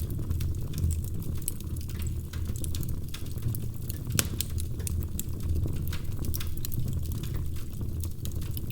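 Wood fire crackling: a steady low rumble of flames under frequent small, sharp pops, one louder pop about four seconds in.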